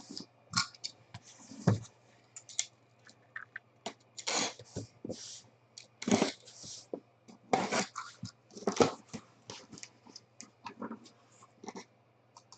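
Trading-card box packaging being opened and handled: plastic wrap crinkled and torn, with irregular rustles, clicks and taps of cardboard and cards.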